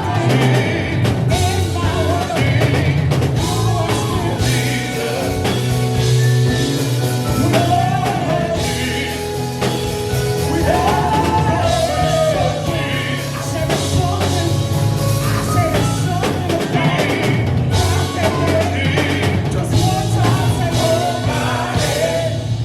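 Live gospel quartet singing with a backing band of bass guitar and drum kit, ending abruptly near the end.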